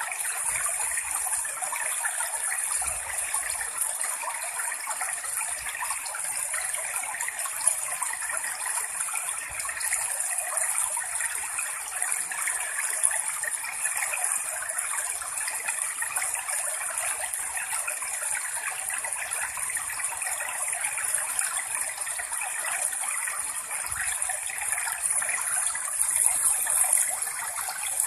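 Steady rushing water, a continuous even hiss.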